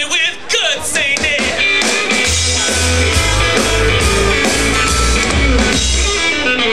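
A band playing rock music: a singing voice in the first second, then guitar and other instruments over a steady, heavy bass beat.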